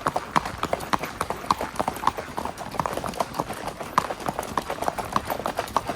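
Hoofbeats of a spotted saddle horse gelding moving at a quick, even pace, several sharp hoof strikes a second.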